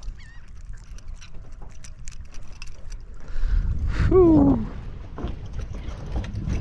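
Wind and water rumble on the boat with scattered light clicks and knocks of tackle handling. There is a short high chirp near the start, and about four seconds in a single loud, falling cry lasting about half a second.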